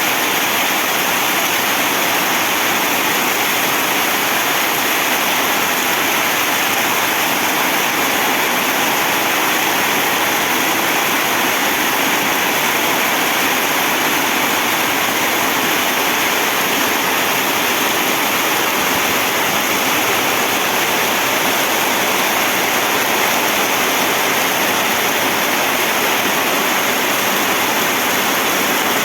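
Heavy rain falling steadily: a loud, even rushing hiss with no breaks.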